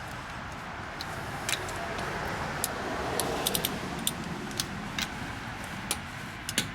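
Scattered sharp metallic clicks at irregular intervals, from a socket and wrench being handled on a car's lug nuts, over steady background noise.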